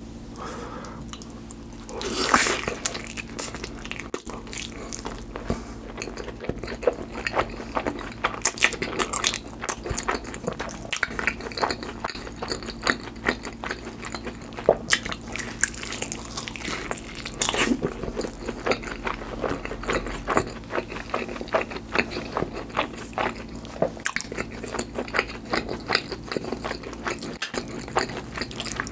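Close-miked biting and chewing of a cheese pizza slice topped with mashed avocado: soft crunches of the crust and many small wet mouth clicks, with a louder bite about two seconds in.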